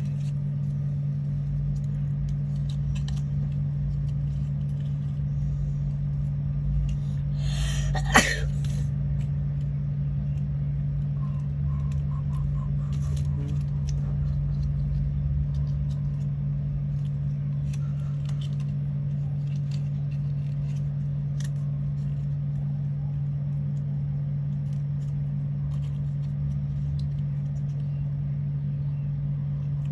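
Steady low mechanical hum, with faint scattered clicks and rustles and one sharp click about eight seconds in.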